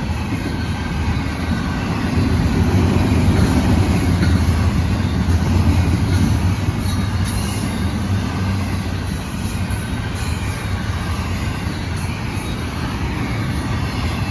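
Intermodal freight cars rolling past on the rails, a steady loud rumble of wheels on track.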